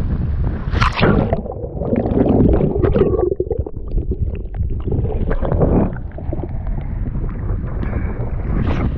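Sea kayak paddling: water splashing and sloshing in bursts as the paddle strokes through the sea, the loudest about a second in, with wind buffeting the microphone throughout.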